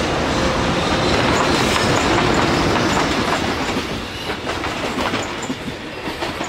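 JR Freight EH500 electric locomotive passing at speed, then its container wagons: a loud, steady rumble of wheels on rail that turns into the clatter of wagon wheels over rail joints about four seconds in.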